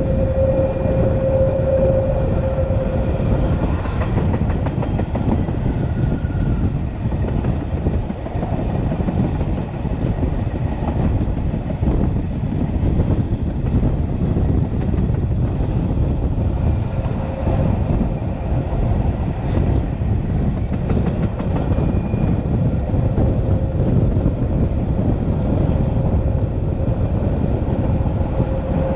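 A Matterhorn Gotthard Bahn metre-gauge train, led by an HGe 4/4 locomotive, running along the track with a steady rumble of wheels on rail. A squeal sounds at the start and fades out about three seconds in.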